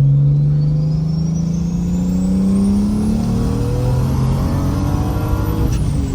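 Straight-piped, big single-turbo N54 inline-six of a BMW 335i in a full-throttle third-gear pull: the engine note climbs steadily with a high whine rising over it. Near the end the throttle lifts and the whine falls away.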